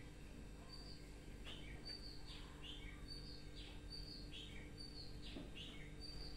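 A small bird chirping faintly and repeatedly in the background, short high notes alternating with quick falling ones, about two to three notes a second.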